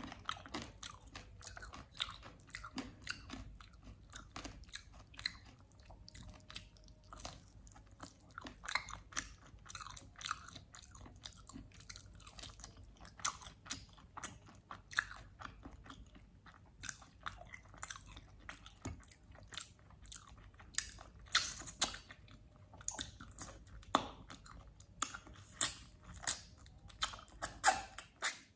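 Close-miked chewing and biting of grilled, sauced mutton chops: wet mouth sounds with many small clicks and crunches, the bites sharper and louder toward the end.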